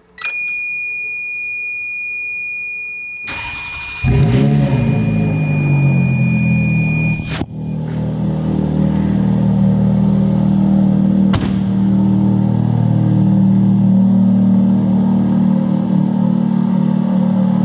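Ferrari F430 Spider's 4.3-litre V8 cold start: a steady high whine, then the starter cranks briefly and the engine catches about four seconds in, flaring up in revs and dropping back to a steady fast idle. A single sharp knock about eleven seconds in.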